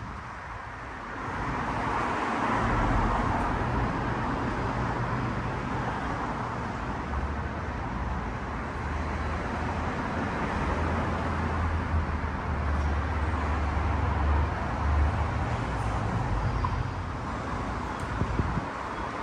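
A car engine running at low revs, its low hum stepping down in pitch about a third of the way in, over a steady hiss of road noise. The sound swells about a second in.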